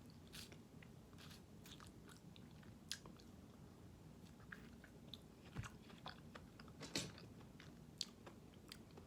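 A person chewing a small gummy-centred candy close to the microphone: quiet wet mouth clicks, with a few louder clicks, the loudest about seven seconds in.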